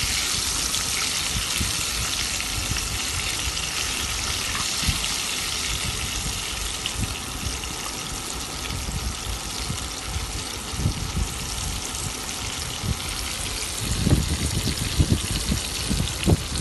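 Flour-dusted chicken wings shallow frying in hot oil: a steady sizzle with small crackles. A few low knocks near the end.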